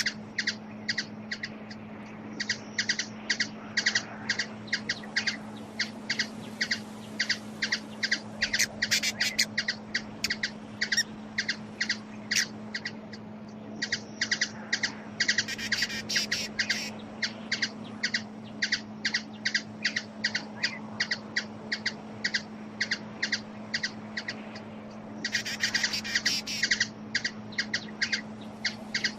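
A bird calling in a rapid, steady series of short high notes, about three to four a second, with a few louder, denser bursts; a steady low hum runs underneath.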